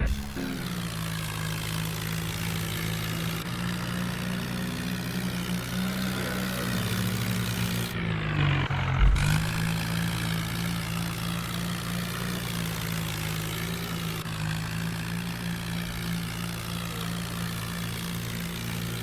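Heavy diesel engine running steadily with a deep drone; about eight seconds in its pitch dips briefly under load and then picks back up.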